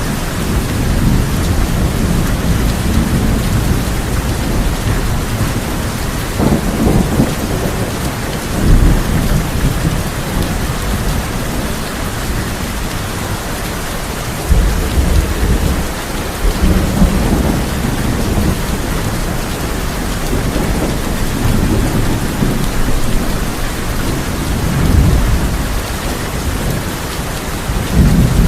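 Heavy rain drumming steadily on a tin roof, with low rolls of thunder swelling up several times and dying away. The loudest rumbles come about a third and half of the way through.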